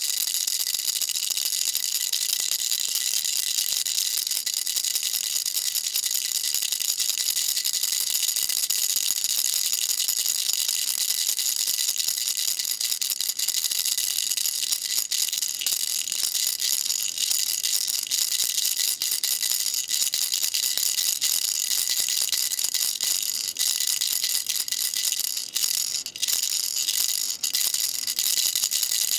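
Baby rattle shaken continuously: a dense, steady, high-pitched rattling of small beads, with a brief break about 26 seconds in.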